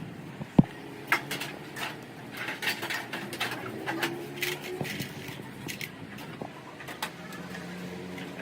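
Two sharp knocks about half a second apart, then scattered light clicks and clinks, with faint wavering tones in the middle.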